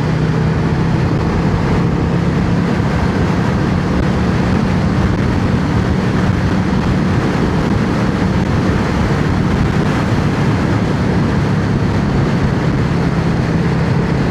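Yamaha XVS650 air-cooled V-twin motorcycle running steadily at cruising speed, under a constant rush of wind and road noise.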